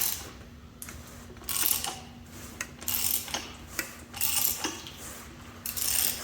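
Ratchet wrench clicking in repeated strokes, about one every one and a half seconds, turning a 351 Windsor V8's crankshaft over by hand.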